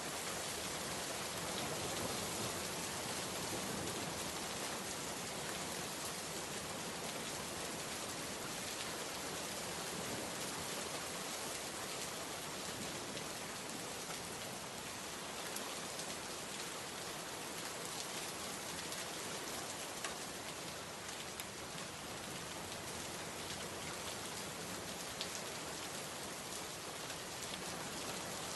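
Steady heavy rain falling and pattering on surfaces, a dense even hiss with scattered individual drop ticks.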